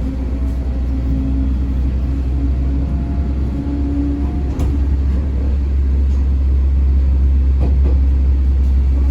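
Inside a JNR-era electric local train running along the line: a steady, heavy low rumble with a faint hum, and two short sharp clicks, one past the middle and one near the end.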